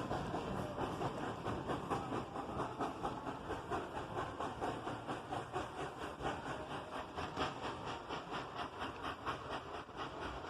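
Narrow-gauge steam train moving on the track, a fast, even run of beats with some hiss, slowly fading as it draws away.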